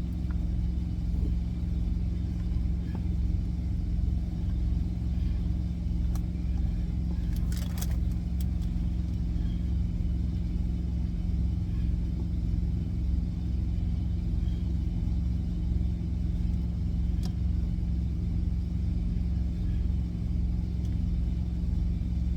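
Semi-truck engine idling with a steady low rumble. A few light clicks and a brief clatter about eight seconds in.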